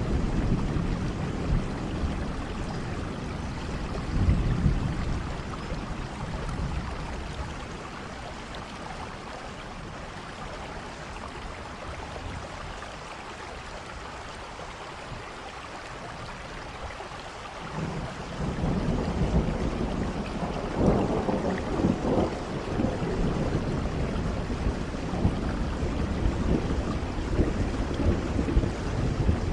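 Steady rainfall with low rolling thunder. The rumble eases off in the middle, then swells again about eighteen seconds in with uneven loud peaks.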